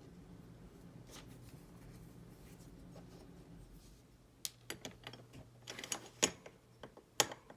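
Small model-kit parts and screws being handled on a work surface: a near-quiet stretch, then from about halfway a run of light, irregular clicks and taps.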